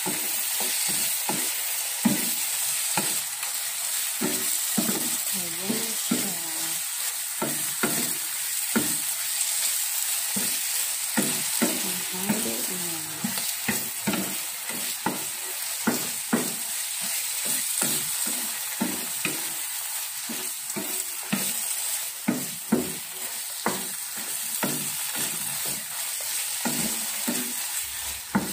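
Bagoong alamang (shrimp paste) sizzling as it fries in a pan while a wooden spatula stirs it, with frequent irregular scrapes and knocks against the pan under a steady sizzle.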